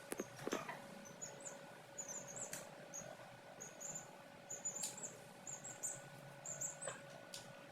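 Young chicks peeping: many short, high chirps in quick succession, with a few sharp clicks and a faint steady hum underneath.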